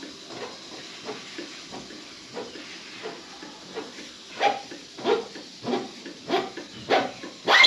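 A run of short, sharp knocks at a steady beat, about one every half second or so. They start faint and get much louder from about halfway through, with the loudest knock near the end. They fit tools striking the metal parts of a motorcycle's front fork during a fork seal service.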